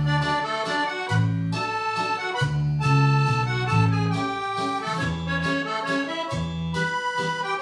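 Accordion playing a mazurka: a melody in the right hand over a regular bass-and-chord accompaniment in the low register.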